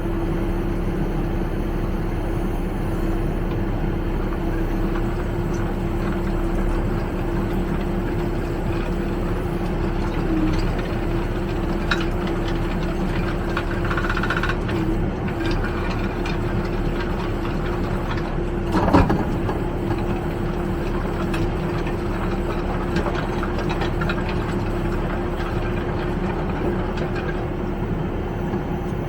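Backhoe loader's diesel engine running steadily while it drives a Gyro Star roller screening bucket sifting soil and rubble, with a steady hum throughout. One louder knock comes about nineteen seconds in.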